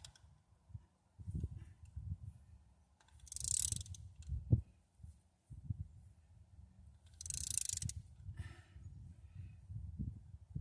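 Ratchet wrench clicking in two short runs, about three seconds in and again about seven seconds in, with scattered light metal knocks, while the rocker arms on a Ford engine are being tightened and adjusted.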